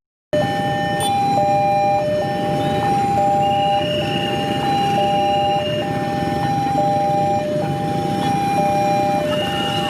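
Railway level-crossing warning alarm sounding: an electronic two-tone signal alternating steadily between a higher and a lower pitch, each held about a second, warning that a train is approaching.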